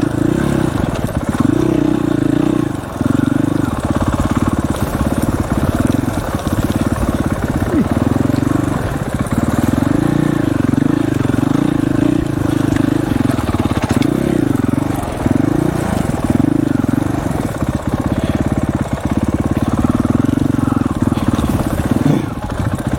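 Dirt bike engine running under way, its pitch rising and falling again and again as the throttle is opened and closed, with a few brief drops.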